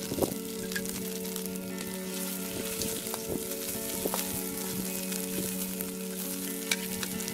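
Fish frying in oil in a wok, a steady sizzle, with occasional metal clinks and scrapes of a spatula or spoon against the pan as it is stirred.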